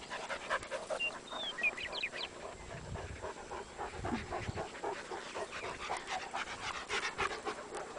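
Dogs panting, fast and irregular. A few short, high chirps come in about a second in.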